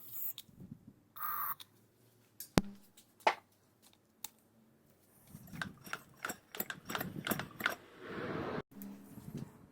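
Irregular small clicks and knocks of hard parts and tools being handled, with one sharper click about two and a half seconds in and a dense run of clicks in the second half. There is a brief hiss about a second in.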